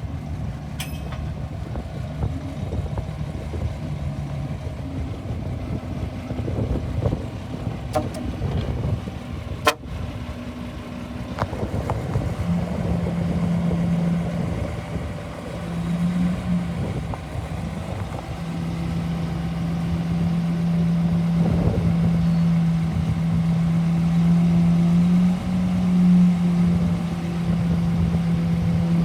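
Hyundai bulldozer's diesel engine running steadily, growing louder about twelve seconds in as it takes on more throttle, with a couple of sharp metallic knocks before that.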